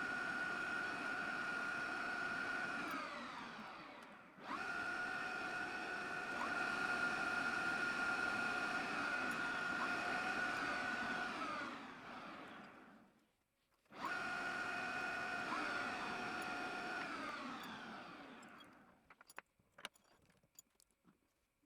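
Schaublin 125CNC lathe spindle running with a steady whine and then winding down, falling in pitch as it coasts to a stop, three times over. A few light clicks come near the end.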